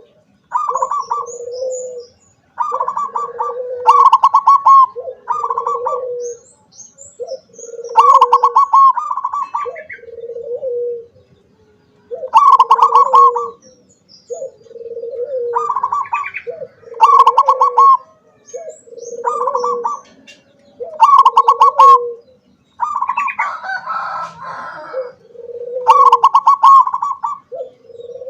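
Zebra dove (perkutut) cooing in repeated phrases, each a fast rattling note followed by a lower drawn-out coo, one phrase every one to two seconds.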